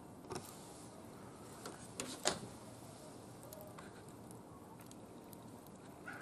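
Wood fire crackling in a barbecue grill: a steady low hiss with a few sharp pops, two of them close together about two seconds in, the second the loudest.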